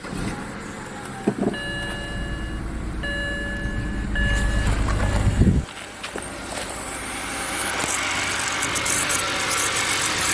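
2006 BMW E90 engine being started and running, with a few electronic chime tones partway through; the engine sound cuts down sharply about five and a half seconds in and then settles into a steadier idle that grows louder. The idle is rough from a misfire that the owner traces to bad ignition coils.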